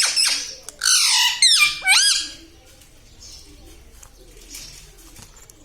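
Pet parrot giving a run of shrill, high-pitched calls that sweep up and down in pitch for about two seconds, then falling quiet apart from faint scratching.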